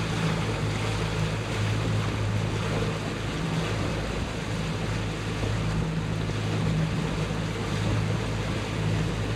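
Boat motor running at a steady pitch while cruising, with a constant rush of wind and water past the boat.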